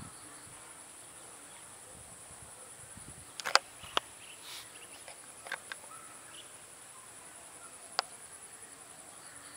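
Steady high-pitched insect trill, with a few sharp clicks, the loudest cluster about a third of the way in and a single click near the end.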